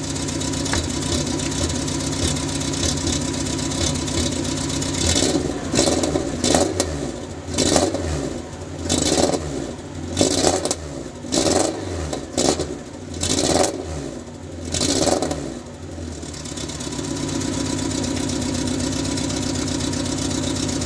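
Citroen Saxo 1.1i four-cylinder petrol engine running with the misfire that the owner traces to fouled, oily, fuel-soaked spark plugs. It idles steadily, is blipped about ten times in quick succession from about five seconds in, then settles back to idle.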